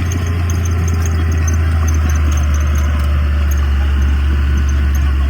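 Diesel engine of heavy earthmoving equipment running steadily with a deep, even rumble.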